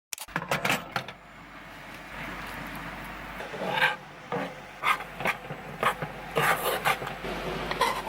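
Cookware and utensils being handled while making breakfast: irregular scrapes, rubs and light clatters, the loudest about four seconds in and a cluster near the end.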